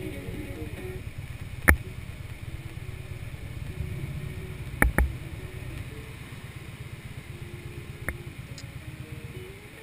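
Harley-Davidson Street Glide's V-twin engine running at steady cruising speed: a low, fast exhaust pulse on the move. A few sharp knocks stand out, the loudest about two seconds in, a pair around five seconds, and a fainter one near the end.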